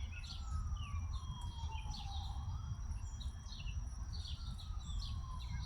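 Small birds chirping repeatedly over a distant siren that slowly wails down, up and down again, with a steady low rumble underneath.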